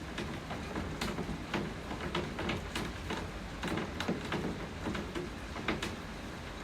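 Steady rain with many sharp, irregular drops striking a surface close by, several a second over a continuous hiss.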